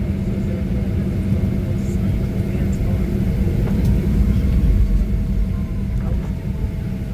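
Inside the cabin of a Boeing 737-700 taxiing after landing: a steady low rumble of the CFM56-7B engines at idle and the airframe rolling, with a thin steady hum over it.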